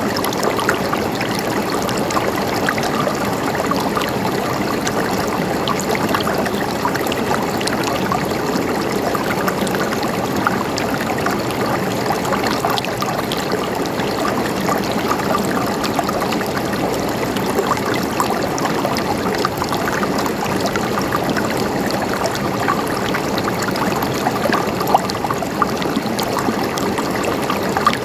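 Mountain stream running and gurgling steadily over rocks, with small splashes and trickles throughout.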